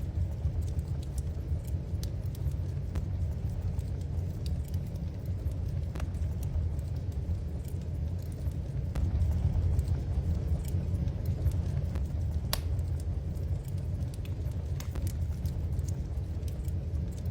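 Wood fire crackling in a fireplace: scattered sharp pops and snaps, a louder one about twelve seconds in, over a steady low rumble.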